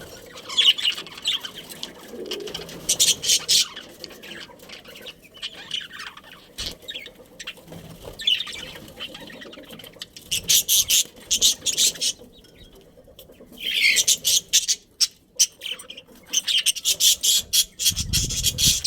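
Budgerigars chirping and chattering in repeated bursts of quick high notes, with a short lull about two-thirds through.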